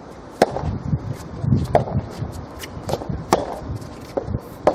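Soft tennis rally: rackets hitting the rubber ball back and forth, four sharp hits about a second and a half apart.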